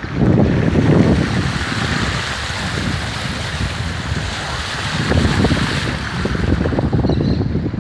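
Heavy rain falling as a steady hiss, with gusts of wind buffeting the microphone in low rumbles that swell about a second in and again near the end.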